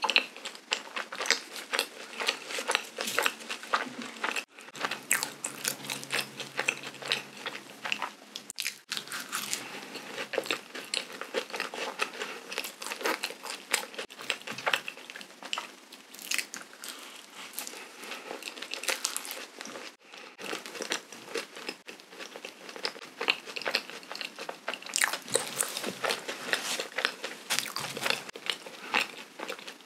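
Close-miked chewing of a soft cream-filled donut dusted with powdered sugar: a dense, continuous run of small clicking mouth sounds, with a couple of brief pauses.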